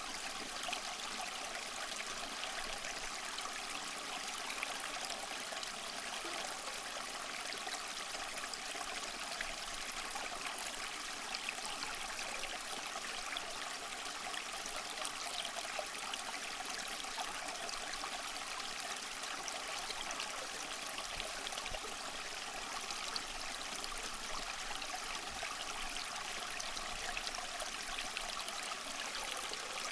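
Water trickling and splashing steadily down a small tabletop waterfall fountain.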